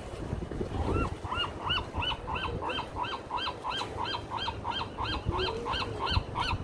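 A bird calling over and over, a steady series of short rising-and-falling calls, about three a second, starting about a second in. Low wind and surf noise sit underneath.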